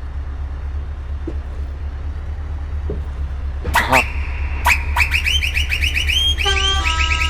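Scania truck's diesel engine idling with a steady low pulsing rumble. About halfway through, a quick series of high chirping tones, several a second, starts up and turns into held notes of several pitches near the end.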